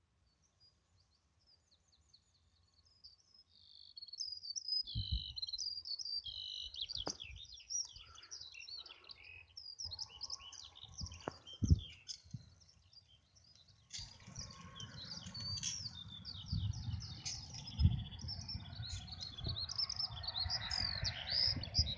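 Small birds chirping and twittering in quick, high phrases, starting a few seconds in. A low rumbling noise builds from about two-thirds of the way through, with a few low thumps.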